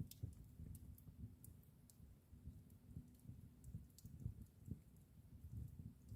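Wood fire in a fireplace crackling faintly: irregular sharp pops and snaps scattered over a low, uneven flutter of flames.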